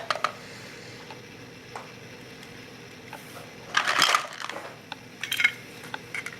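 Short clicks and clatter of small hard items being handled and knocked together, with a denser rattle about four seconds in and another just after five seconds.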